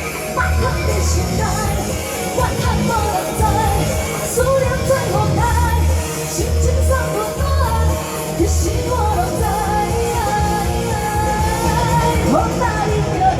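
Female vocalist singing a Taiwanese pop song over amplified band accompaniment with a pulsing bass beat.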